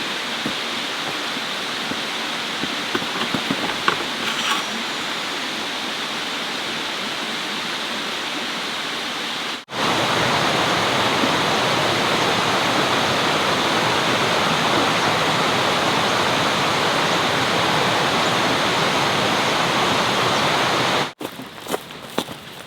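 Steady rush of flowing water. About ten seconds in it cuts abruptly to a louder stretch of the same rush, which breaks off near the end, followed by a few light clicks.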